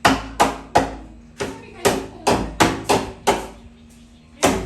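Hammer blows, about ten sharp strikes in an uneven rhythm, each with a brief ringing after it, as a gutter is being fixed in place.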